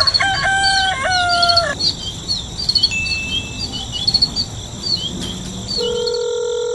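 Farmyard ambience: a rooster crows at the start over many short bird chirps and a steady high insect drone. Near the end a steady electronic ringtone sounds for about a second and a half.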